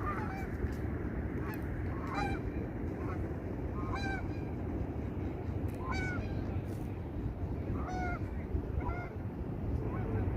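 Waterfowl calling: short pitched calls, one every second or two and sometimes in quick pairs, over a steady low background noise.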